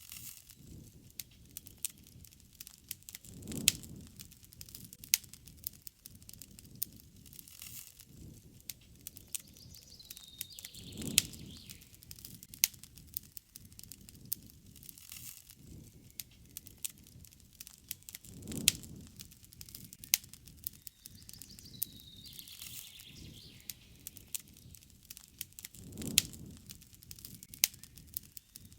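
Wood fire crackling, with frequent sharp pops and a louder low surge about every seven and a half seconds. A bird calls twice with a short falling note.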